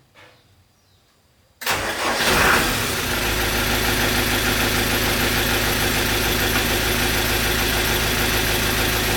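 Old truck engine starting suddenly about two seconds in, rising briefly, then settling into a steady idle.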